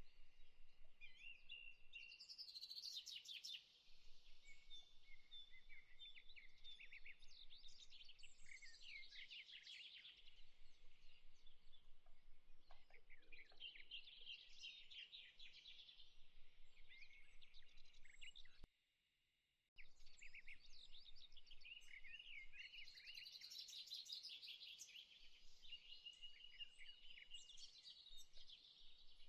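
Faint birdsong: many small birds chirping and trilling over one another. The sound cuts out for about a second roughly two-thirds of the way through.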